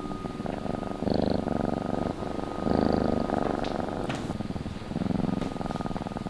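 Purring like a cat's, a steady fast rumble that swells louder about a second in, around three seconds and around five seconds.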